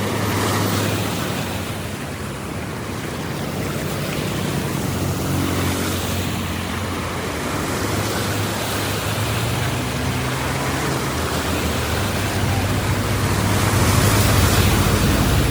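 Water rushing and churning steadily, growing a little louder near the end.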